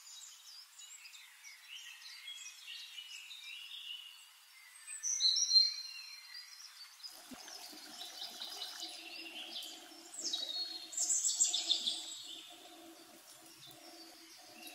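Small birds chirping, the loudest calls about five seconds in and again a few seconds before the end. A low steady hum comes in about halfway through.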